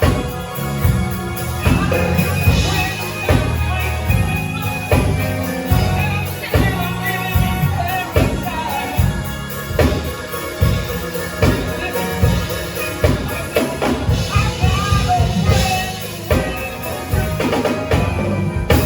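A band playing a song, with drum kit hits over a heavy bass line; the music stops right at the end.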